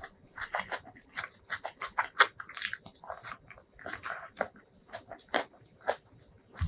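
Close-miked eating sounds: wet chewing and lip smacks as a handful of rice is eaten by hand, with many short clicks and a few louder squishy, crunchy bursts.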